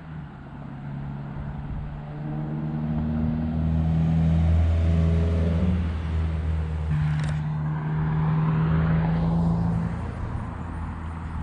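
2017 Subaru WRX's turbocharged flat-four running through its muffler-deleted exhaust with a deep drone. The note climbs gently and grows louder over the first few seconds, breaks briefly with a click about seven seconds in, then holds steady before easing off near the end.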